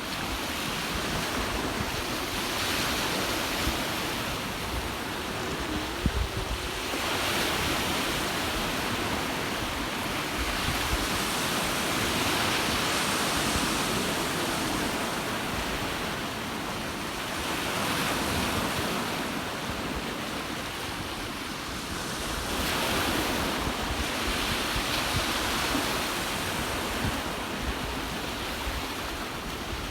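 Ocean surf roaring and washing ashore, swelling and easing every few seconds, with wind buffeting the microphone in a low rumble and a few brief thumps.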